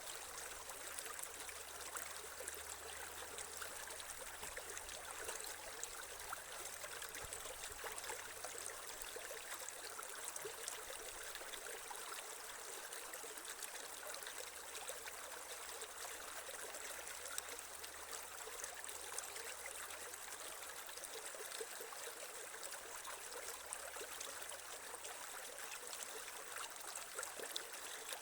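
Creek water flowing and trickling steadily, with small splashes.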